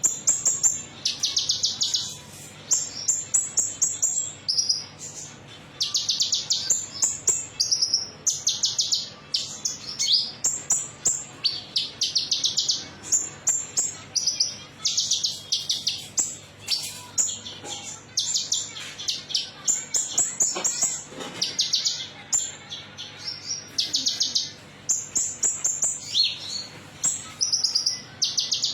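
Konin metalik songbird singing, a fast run of high, rattling trills and sharp chirps in bursts of about a second, repeated over and over with short gaps.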